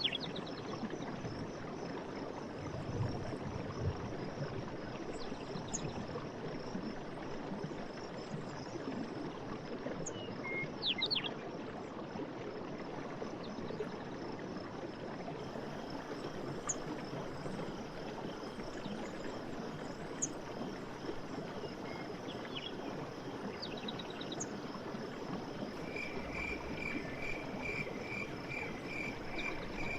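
Night forest ambience: a steady rushing like a stream under a continuous high chorus of chirping insects, with a few short chirps scattered through. About 26 seconds in, a rapid pulsed trill starts and keeps going.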